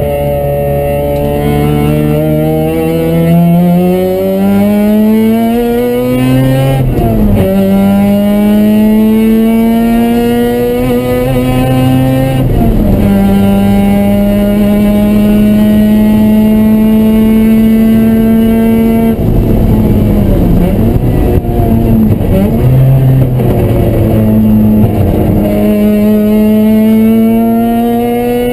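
Mazda RX-7's two-rotor rotary engine, heard from inside the cabin while lapping a track. It climbs in pitch under hard acceleration, drops at two upshifts, holds a steady high pitch for several seconds, falls and wavers as the driver comes off the throttle for the next corner, then climbs again near the end.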